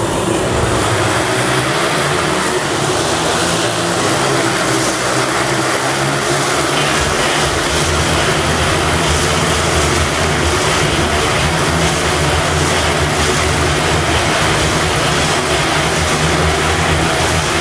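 Several sport motorcycle engines running hard together inside a steel globe of death, a dense, steady engine sound, the low note growing stronger about seven seconds in.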